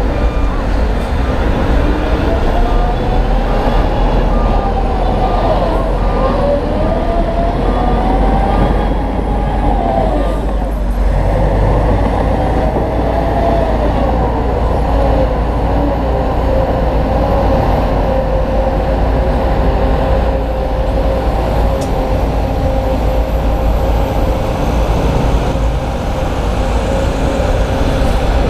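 Heavy diesel earthmoving machinery running under load, its engine note rising and falling as it works, over a constant deep rumble. A faint, regular beeping, like a reversing alarm, is heard in the first few seconds.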